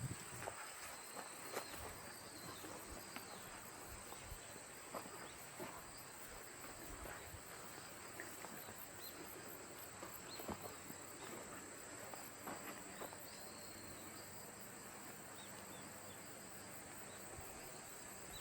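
Insects such as crickets trilling steadily at a high pitch, with faint regular pulsing above it. Scattered small clicks and rustles throughout are typical of footsteps on leaf litter.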